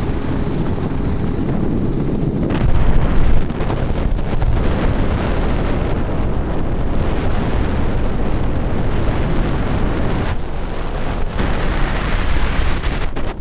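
Heavy wind buffeting the microphone over a steady engine drone, as from an aircraft filming overhead, surging louder about three seconds in.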